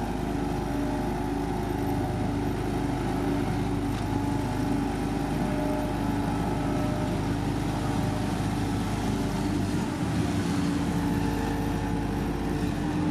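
Engine of heavy road-paving machinery running steadily, a constant even hum with no revving.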